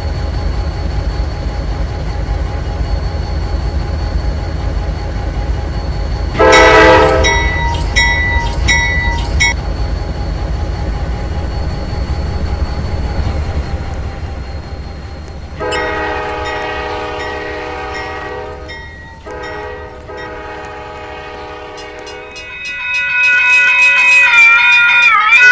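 A diesel locomotive's horn sounds several times over the steady rumble of a train. First comes a blast followed by a few short toots. Then come longer blasts, and near the end a louder horn with a brief dip in pitch.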